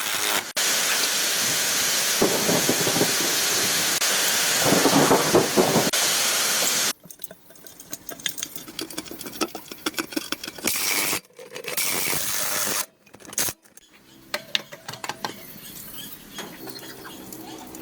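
A spray hisses steadily for about six seconds, then cuts off suddenly. Two shorter bursts of spray follow, among quieter clicks and clatter.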